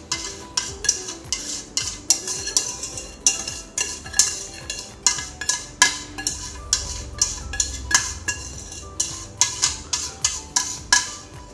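A metal utensil stirring in a pot, clinking and scraping against its sides and bottom several times a second, with short ringing notes. It is the coconut milk, egg and sugar mixture for kaya being stirred to dissolve the sugar left at the bottom of the pot.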